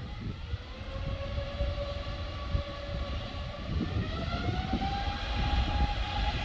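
Airbus A350-900's Rolls-Royce Trent XWB turbofan engines spooling up to takeoff thrust: a whine over a low rumble, the whine rising in pitch about four seconds in and then holding steady.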